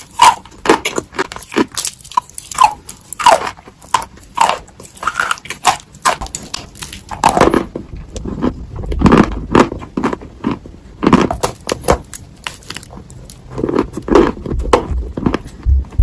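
Dry edible Ural clay being bitten and chewed close to the microphone: a run of sharp, irregular crunches and cracks, turning to fuller, louder chewing about halfway through.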